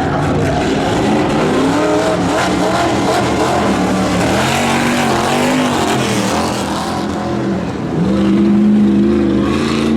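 Stock-class truck engine revving hard over a rough course, its pitch rising and falling as the throttle is worked, with tyre and dirt noise underneath. About eight seconds in it gets louder and holds a steady high rev.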